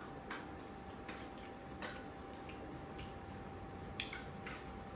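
Faint, scattered light clicks and ticks of eating at a table, roughly one a second, with a low hiss and a faint steady hum underneath.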